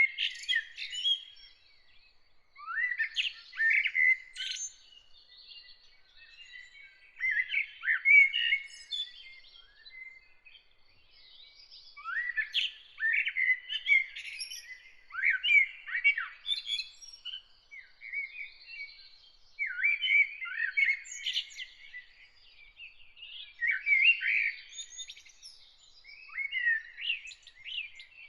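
A songbird singing: phrases of quick chirps and sweeping whistled notes, repeated every few seconds with short gaps between them.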